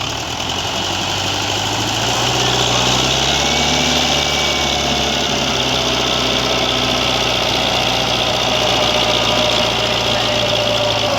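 Heavy diesel engine running steadily, its pitch lifting slightly about two seconds in and then holding.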